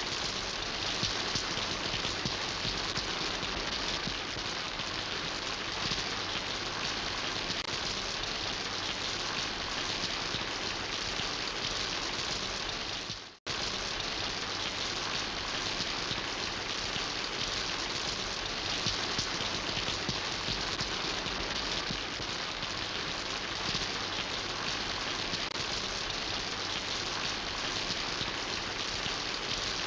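Steady rain falling, a dense even hiss of drops. The sound cuts out for an instant about 13 seconds in, then resumes unchanged.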